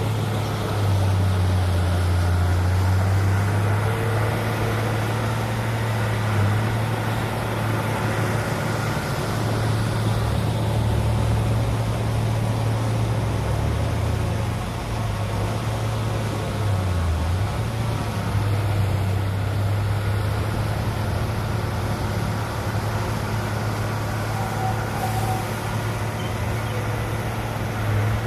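Heavy construction machinery's diesel engine running with a steady low drone. Its pitch dips and recovers several times as the load changes.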